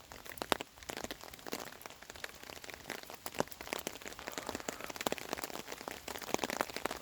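Rain falling, with a faint hiss and many irregular ticks of drops hitting nearby surfaces, several a second.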